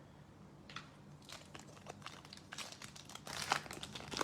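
Crinkling and rustling of plastic trading-card packaging and cards being handled, a quick run of small crackles that grows busier from about a second in.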